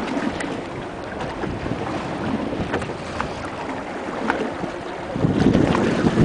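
Wind buffeting the microphone in an open fishing boat on the water, with scattered small knocks and splashes. The rush grows louder about five seconds in.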